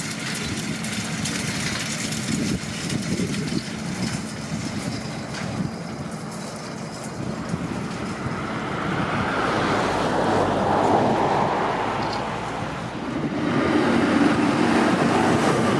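JCB Fastrac 4220 tractor running steadily while working a field with a Krone Swadro rotary rake, growing louder near the end.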